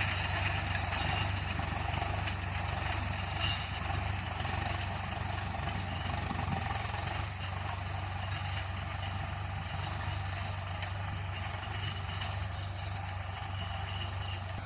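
Tractor engine running steadily while ploughing a field, a constant low engine note.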